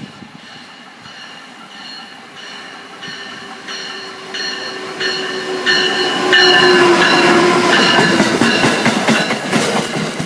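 Amtrak passenger train led by an ACS-64 electric locomotive approaching and passing at speed. Its rumble grows louder and is loudest from about six seconds in, with a ringing tone that repeats about every 0.7 seconds and wheels clacking over the rails as the cars go by.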